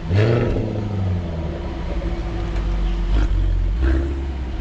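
Car engine running steadily, heard from inside the cabin, with a short rise in pitch right at the start before it settles into an even drone.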